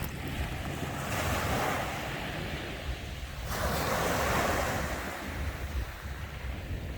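Sea waves breaking and washing up the shore, two surges about a second in and about three and a half seconds in, the second the louder, over a low wind rumble on the microphone.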